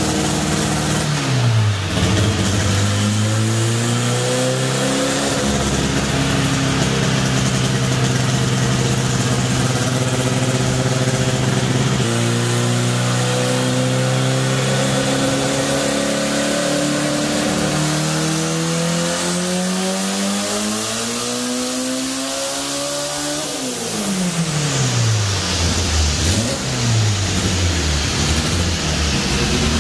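The 2.0-litre turbocharged inline-four of a methanol-fuelled 1987 VW Jetta drag car making a pull on a chassis dyno. The revs dip and climb, hold, break about twelve seconds in, then climb steadily for about ten seconds. They fall sharply as the throttle is let off, followed by a few revs up and down.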